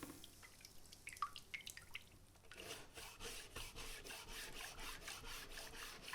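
Faint water drips and small splashes, then a quick run of short wet strokes, about five a second.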